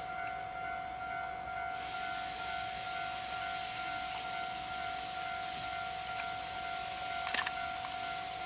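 Steam hissing from the C12 66 steam locomotive, starting about two seconds in and continuing steadily over a constant high ringing tone. A quick burst of camera shutter clicks comes near the end.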